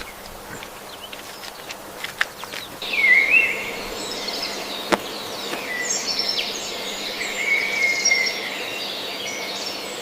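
Small birds chirping repeatedly, starting about three seconds in, over a steady outdoor background hiss; a few faint clicks before that.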